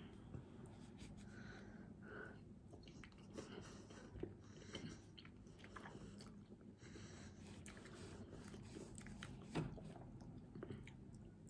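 A person chewing food quietly, with faint clicks and small knocks from hands working the food on the plate; one sharper click comes about two seconds before the end.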